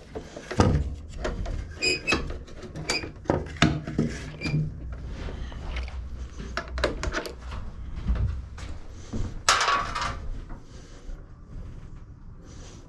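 Irregular clinks and knocks of hand tools and metal parts being handled in repair work on a lawn mower's front height adjuster, with a brief ringing metallic ping about two seconds in and a short scrape near the end.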